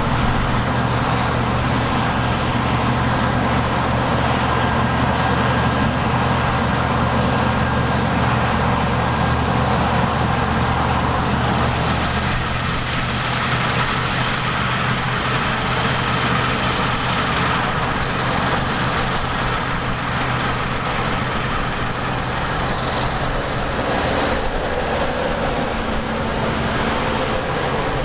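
Heavy harvest machinery running steadily under load close by, a continuous engine drone with a dense mechanical din.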